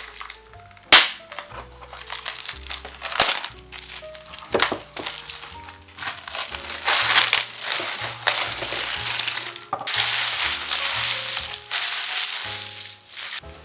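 Crinkling and crackling of packaging being handled, with a sharp snap about a second in and longer crinkly stretches in the second half, over soft background music.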